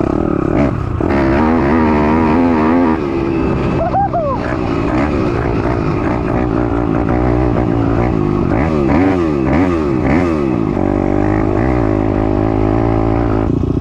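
Piranha 190 pit bike engine running under riding load, its revs rising and falling again and again. The rider thinks it could use a little carb adjustment.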